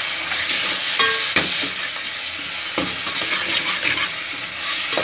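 Tomato paste frying with onions and ginger in hot oil in a pan: steady sizzling, with a metal ladle stirring and scraping the pan bottom in a few uneven strokes.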